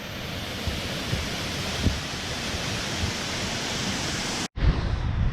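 Waterfall, a steady rush of falling water. The sound drops out briefly about four and a half seconds in.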